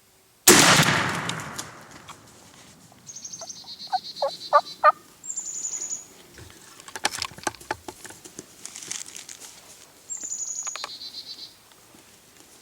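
A single loud bang about half a second in, ringing out for over a second, followed by a wild turkey gobbler's short rattling gobbles and high songbird chirps.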